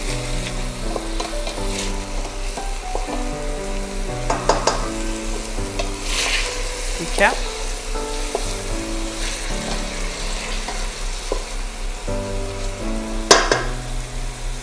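Chopped onions sizzling in oil in a stainless steel pot, stirred and scraped with a wooden spatula a few times.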